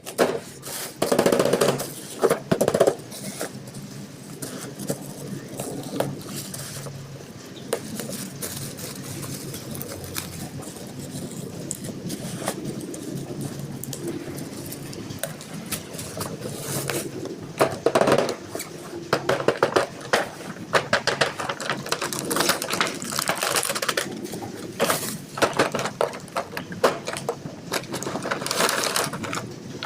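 Small toy cars and their plastic packaging being handled: irregular clicks, knocks and crinkling, busiest at the start and over the last ten seconds.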